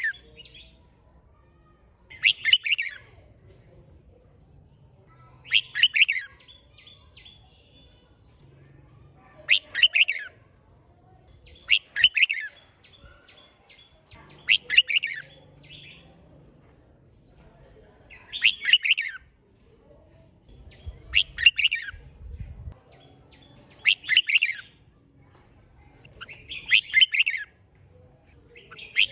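Red-whiskered bulbul singing: short, loud, warbling phrases repeated about every two to three seconds, about ten in all.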